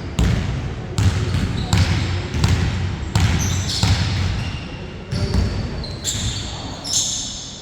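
Basketball bouncing on a court floor, about one bounce every three-quarters of a second, with short high-pitched squeaks over it.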